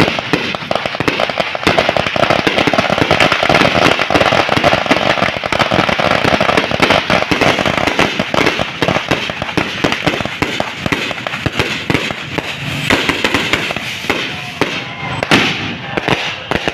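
Fireworks and firecrackers going off in rapid, dense succession: a continuous barrage of sharp cracks and pops, thinning a little near the end.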